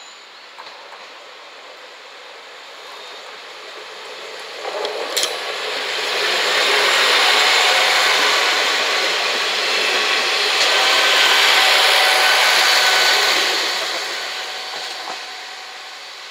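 Two-car KiHa 47 diesel railcar train passing close by, its wheels and running gear making a loud rushing, hissing noise on the rails. The noise swells in about four seconds in, holds loud for several seconds, then fades away. There is a sharp knock about five seconds in.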